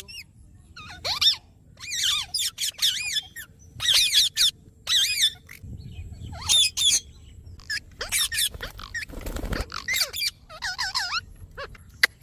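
Parrot calling in quick bursts of short squawks and chirps that bend up and down in pitch, with a brief rustling noise about nine seconds in.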